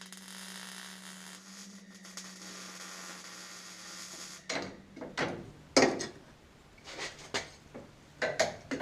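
Welding on the car's front suspension strut mounting: a steady hiss over a low hum for about four and a half seconds, then stops. After it come several sharp metal clanks and knocks.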